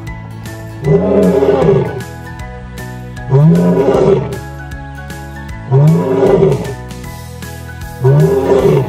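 Lion roaring four times, each roar about a second long and rising then falling in pitch, roughly two and a half seconds apart, over steady background music.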